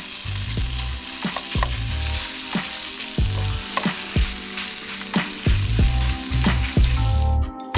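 Raw minced beef sizzling in hot oil with fried garlic in a stone-coated frying pan, the meat just added, with a spatula clicking and scraping against the pan as it is stirred and broken up. The sizzle cuts off about seven seconds in.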